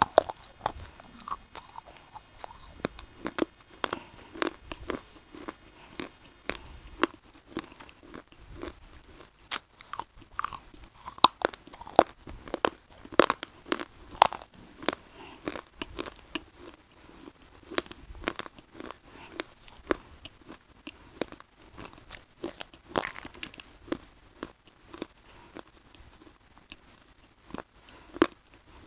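A person biting and chewing crunchy Punjab biscuits close to the microphone: an irregular run of sharp crunches, several a second.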